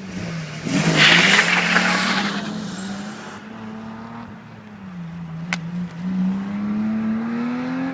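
BMW E36 engine running through a Bimmerworld race exhaust with a center resonator, its pitch dipping and then climbing steadily toward the end as it accelerates. A loud rushing noise rises about a second in and lasts about two seconds. A single sharp click comes past the middle.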